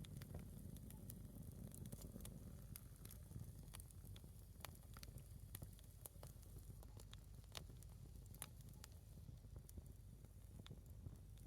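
A single piece of firewood burning in a campfire, crackling faintly with scattered sharp pops over a low steady rumble.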